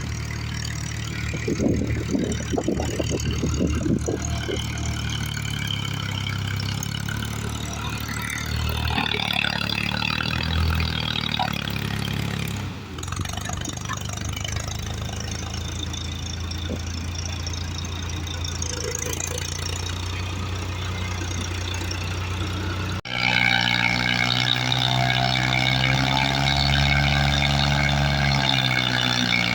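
New Holland 3630 tractor's diesel engine running steadily. There are abrupt breaks about 13 and 23 seconds in, and after the second the engine note rises and falls slightly.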